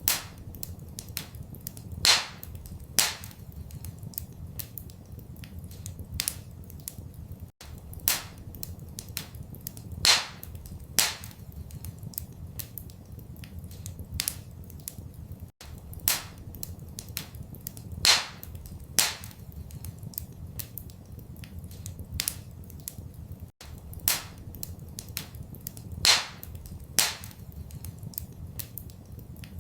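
Wood fire crackling in a fireplace: irregular small snaps with a louder pop about every second or two, over a steady low rumble. The same pattern repeats every eight seconds, with a brief dropout at each repeat, as a looped recording.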